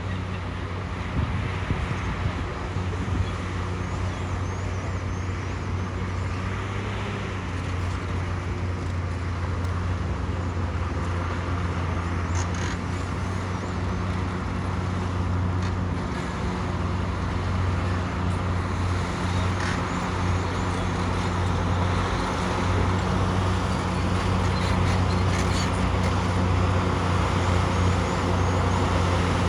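Bulldozer's diesel engine running steadily with a low hum, slowly getting louder, with a few short knocks along the way.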